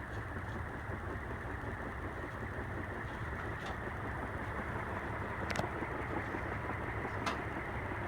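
48-inch API (relabeled CEC) industrial ceiling fan running on high speed: a steady rush of moving air, with a few faint ticks.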